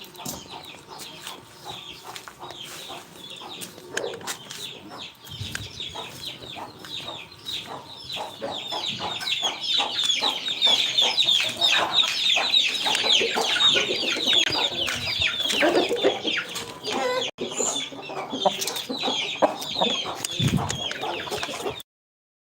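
Many chickens clucking and chirping together: a dense run of short falling calls that gets busier toward the middle. The sound cuts off suddenly near the end.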